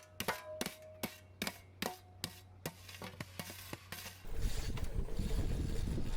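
Irregular sharp knocks and scrapes of shovels on packed dirt, some strikes ringing briefly like a metal blade, as jumps are shaped. About four seconds in, a louder steady rumbling noise takes over.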